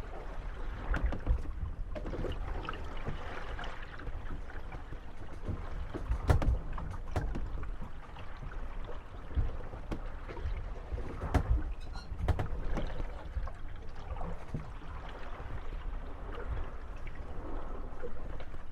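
Moored gondolas rocking on waves: wooden hulls knocking and creaking against one another over a steady wash of water, with a few sharper knocks, the loudest about six and eleven seconds in.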